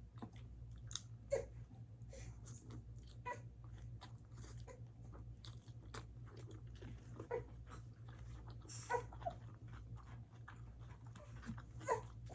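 Close-up eating sounds: irregular chewing, biting and mouth smacks, with sharper clicks about a second and a half in, near nine seconds and near the end, over a steady low hum.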